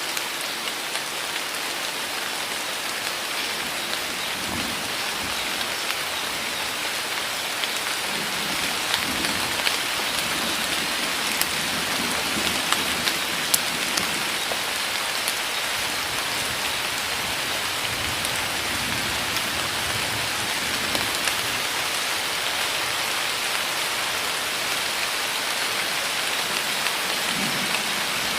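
Heavy rain pouring steadily onto forest foliage, a dense even hiss with a few sharper drops striking close by. Soft low rumbles rise and fall now and then underneath.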